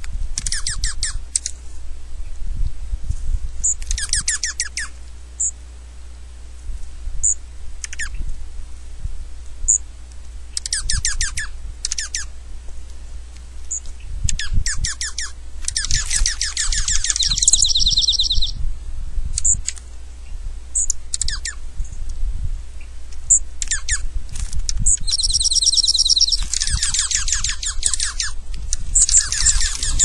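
Small birds calling: short high chirps scattered throughout, and bursts of rapid chattering trills every few seconds, the longest near the middle and again near the end.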